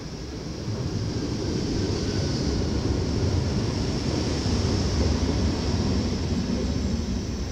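NS ICMm 'Koploper' electric multiple unit pulling in alongside the platform: a deep rumble of wheels on rails with a hiss above it. It grows louder over the first two seconds as the train reaches the camera, holds, then eases a little near the end.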